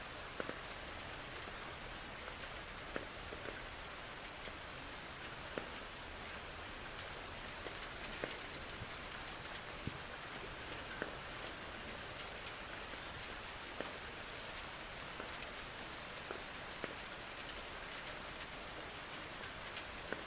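Steady rain falling, with scattered louder drops hitting a surface many times throughout.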